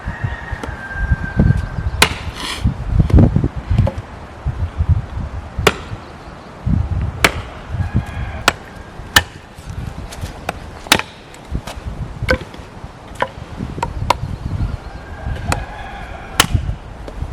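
Chopping: a string of sharp knocks and duller thuds, about one strike a second and quicker in the middle, irregularly spaced.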